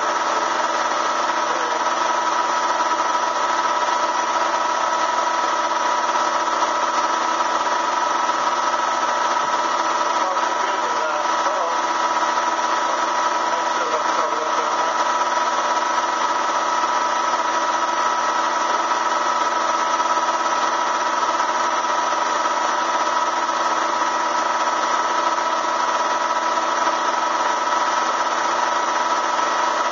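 Bee vacuum motor running steadily with a constant, even whine, drawing bees out of the hive in the wall.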